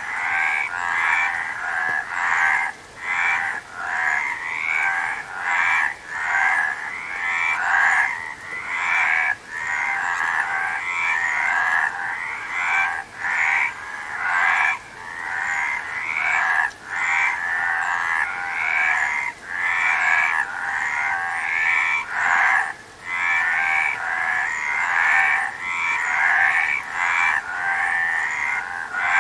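A dense chorus of frogs croaking, many calls overlapping into a continuous pulsing din, with a few brief lulls.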